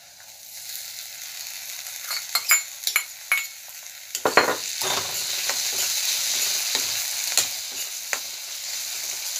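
Chopped tomatoes frying in hot oil and onions in a kadai: a sizzle that builds over the first second or two and then holds steady, with a metal ladle knocking and scraping against the pan as it stirs.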